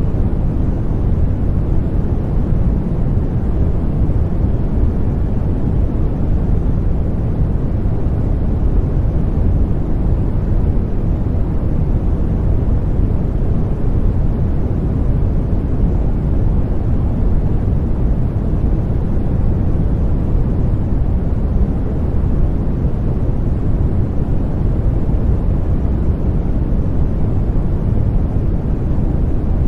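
Steady sleep-aid white noise, a deep, even rush with most of its weight in the bass and little hiss on top, unchanging throughout.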